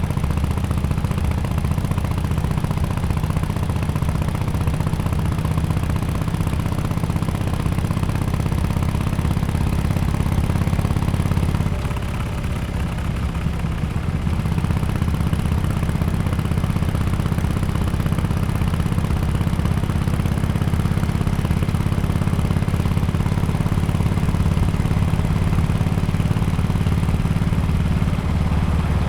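Harley-Davidson XL1200X Forty-Eight's air-cooled V-twin running through an aftermarket Bel's Performance exhaust, holding a steady low engine speed. About twelve seconds in the engine eases off briefly, its note dropping, then picks back up and runs steadily again.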